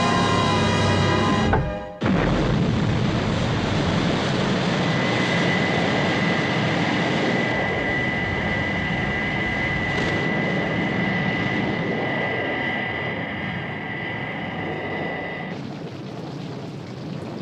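Score music cuts off about two seconds in, giving way to the jet-engine roar of an International Rescue craft in flight: a steady rush with a high, even whine held until near the end, when the whine stops and the roar fades.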